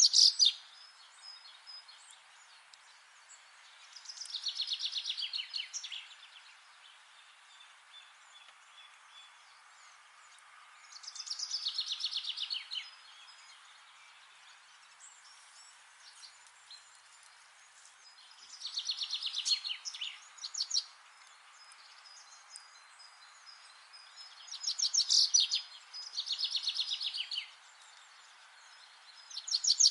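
A songbird singing the same rapid trill over and over, each about two seconds long and falling in pitch, repeated every five to seven seconds, over a steady faint hiss of forest ambience.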